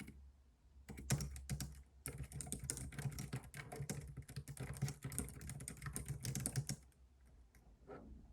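Typing on a computer keyboard: a few separate keystrokes about a second in, then a fast, continuous run of typing for nearly five seconds that stops near the end. A steady low rumble sits underneath.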